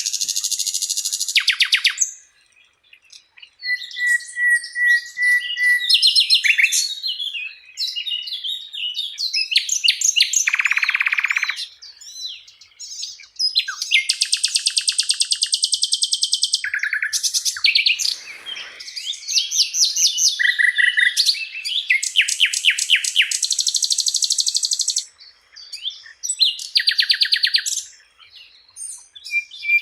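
A Sikatan Londo, a flycatcher, singing a long, varied song: rapid chattering trills, buzzy phrases and short steady whistles, one after another with brief pauses.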